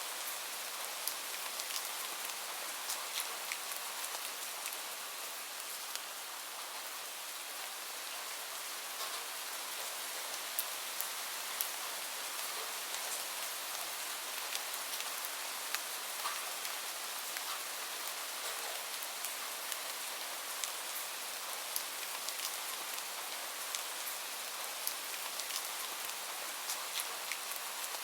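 Steady rain falling, an even hiss with many small drops ticking sharply on a surface.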